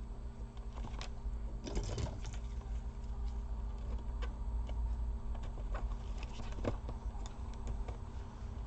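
Scattered light clicks and taps of small laptop parts being handled while the Wi-Fi antenna and display cables are routed and connected, over a steady low hum.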